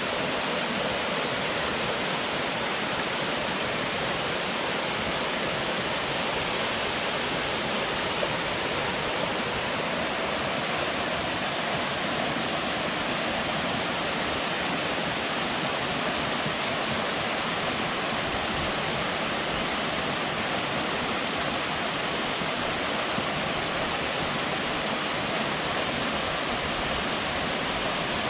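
Water pouring over a dam and rushing down the river below it: a steady, unbroken rush.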